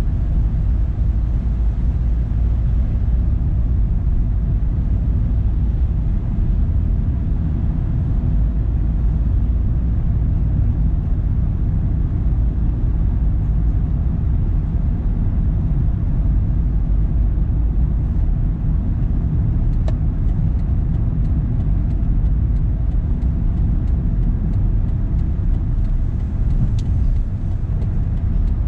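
Car driving along: a steady low rumble of road and engine noise, with a few faint clicks in the second half.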